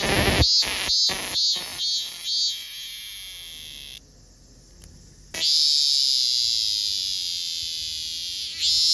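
Robust cicada (minmin-zemi) singing. A run of pulsing "meen-meen" notes, about two or three a second, slows and fades into a drawn-out buzz. Then comes a pause of about a second and a half, and a new song starts with a steady buzz that breaks back into pulsing near the end.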